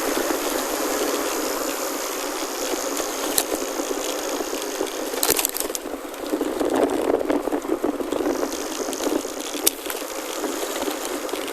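Chromoly gravel bike rolling over a gravel forest road: a steady crunch of tyres on loose stones with the bike rattling over the bumps, and a few sharp knocks.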